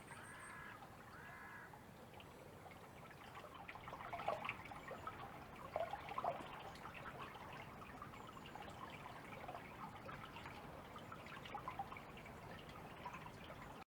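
Faint water dripping and trickling, with scattered small splashes, at the edge of a river. A bird calls twice near the start.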